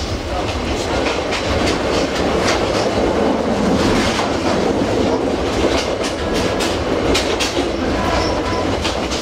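Yangon Circular Train passenger carriage running on the rails, heard from inside: a steady rumble of the wheels with frequent clicks and rattles of clickety-clack.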